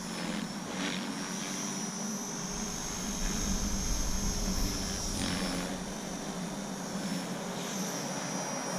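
Align T-Rex 450 electric RC helicopter in flight: a steady high whine from the motor and gears over the buzz of the rotors. It swells a little in the middle.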